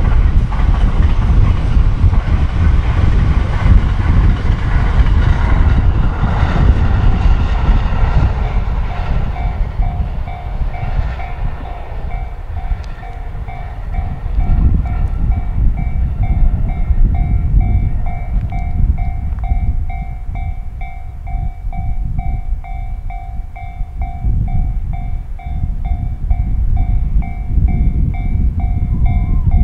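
JR 683-series Thunderbird electric express train passing at speed, its wheel and motor noise fading away over about ten seconds. A steady pulsing tone then holds over a low rumble, and the rumble of an approaching EF510-hauled freight train rises near the end.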